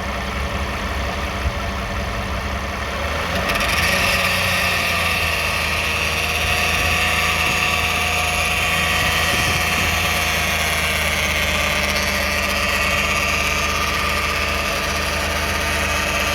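2009 Toyota Sienna's 3.5-litre V6 running. About three and a half seconds in, light throttle raises the revs and they hold there, with a louder high-pitched noise joining in. The owner traces this noise, which grows with the gas, to the flexplate or transmission area.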